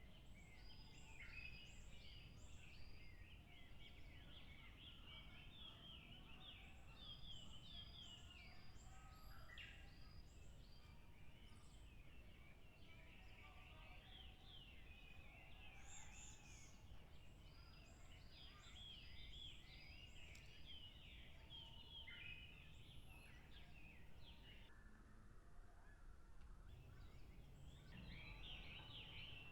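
Faint wild birdsong: many small birds chattering at once, with several runs of short, high, evenly spaced call notes.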